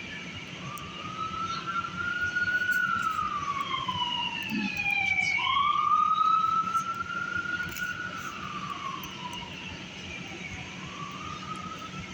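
Emergency vehicle siren wailing, its pitch rising and falling in slow sweeps of a few seconds each. It grows louder toward the middle and then fades, over a steady low hum.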